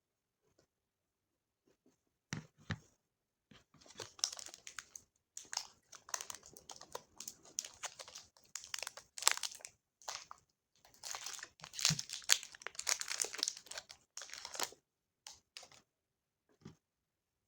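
Snack packaging crinkling and being torn open, a dense crackle that starts about two seconds in and runs until near the end, then dies to a few stray clicks.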